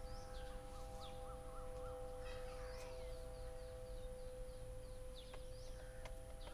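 Small birds chirping: a quick run of about five short chirps early on and several sharp, high, falling calls, over a faint steady whine of several tones.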